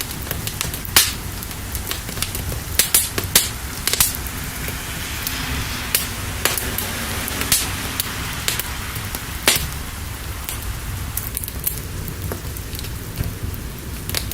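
Wood fire crackling, with irregular sharp pops and snaps, over a steady rush of rain.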